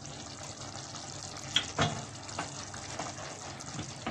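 Faint, steady sizzle of chicken cooking in oil in a hot pan that has just come off the flame. Two sharp clicks of a utensil come about a second and a half in, with a few lighter ticks later.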